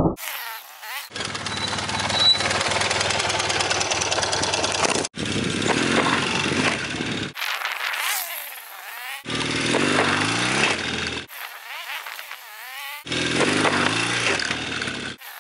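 BMW R100GS Paris-Dakar's air-cooled boxer-twin engine revving, its note rising and falling as the motorcycle rides at and hops off a low pallet ramp. The sound comes in short pieces that cut off abruptly from one to the next.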